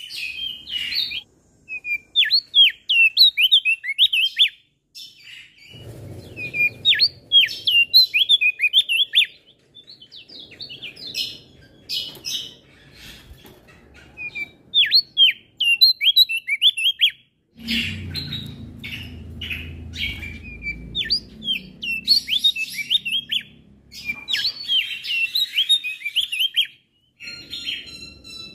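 Male Javan grey-throated white-eye (opior jambul) singing long runs of rapid, high chirping notes broken by short pauses. A faint low background noise comes and goes in spells.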